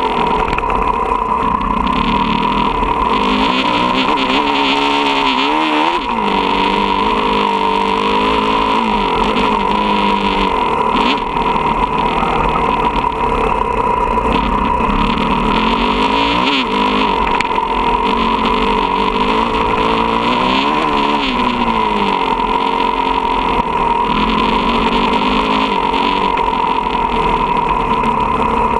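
Motocross bike engine heard from an onboard camera, its pitch rising and falling repeatedly with throttle and gear changes. Steady rushing noise runs throughout.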